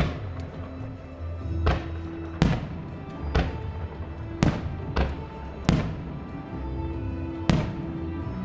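Aerial fireworks shells bursting, about eight sharp bangs at uneven intervals, each trailing off in an echo, over the show's music soundtrack.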